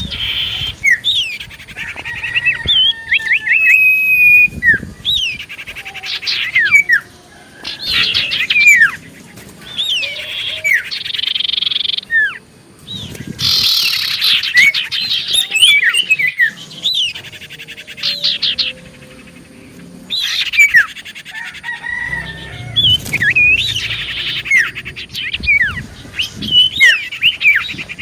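Common iora (cipoh) song: busy chirps, buzzy trills and short sliding whistles in bursts with brief pauses, a loud, lively lure call meant to draw other cipoh birds to answer.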